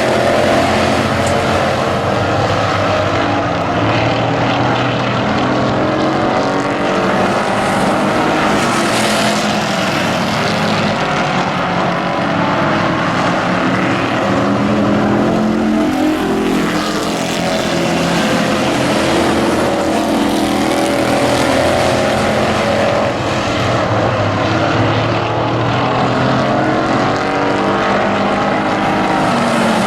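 Several race truck engines running hard together in a pack, their pitches overlapping and rising and falling as the trucks pass and go round.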